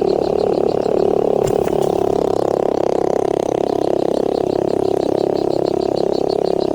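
A dense, steady chorus of animal calls, with a rapid high pulsing of about six or seven beats a second above it.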